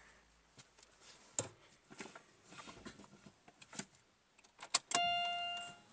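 Small clicks and handling noises inside a car cabin, then a sharp click and, about five seconds in, the Chevrolet Lacetti's electronic dashboard warning chime starting to ding in repeated tones, as the ignition is switched on before a cold start.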